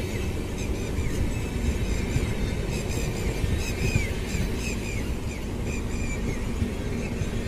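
A passenger train of LHB coaches passing close by at speed, its wheels rumbling steadily over the rail joints, with a run of short, high, falling squeaks repeating two or three times a second over the rumble.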